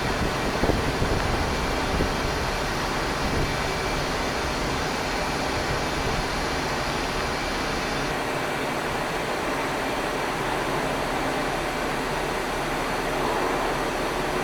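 Jet airliner engine noise, a steady broad rush with a low rumble that drops away about halfway through.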